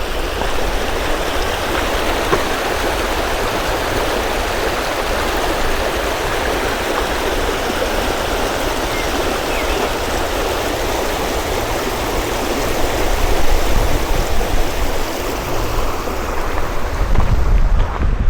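Water rushing steadily, a constant even hiss like a stream or a weir, with a low rumble underneath.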